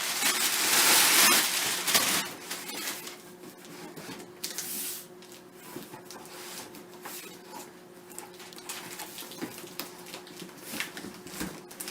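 Cardboard packaging being handled and pulled open: rustling and scraping, loudest in the first two seconds, then quieter scattered rustles and light knocks.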